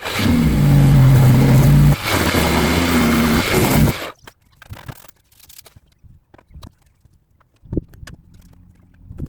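An electric power tool's motor runs loudly in two stretches of about two seconds each, with a brief break between them, then cuts off about four seconds in. A few faint knocks follow.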